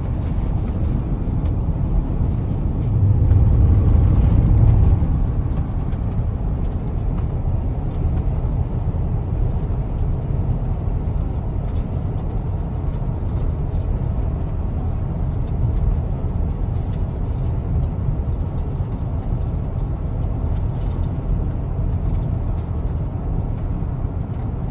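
Car driving along a road: steady low road and engine rumble heard from inside the cabin, swelling louder for a couple of seconds about three seconds in.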